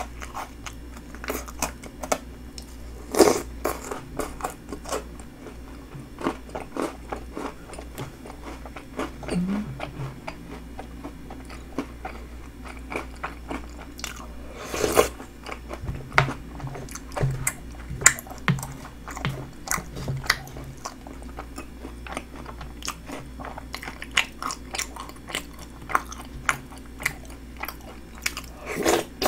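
Close-miked chewing and crunching of a spoonful of snack bingsu: milk-soaked cereal and small crisp cookie puffs bitten and chewed, with many small crunches and a few louder ones spread through.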